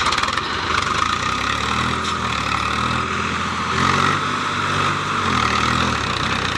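Tractor diesel engine running under load, its note coming up about a second and a half in and fading out near the end over a steady background hiss.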